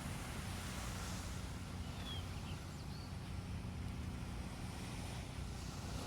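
Sea waves washing onto a beach: a steady hiss of surf that swells about a second in and again near the end, over a constant low rumble. A few faint short high chirps sound in the middle.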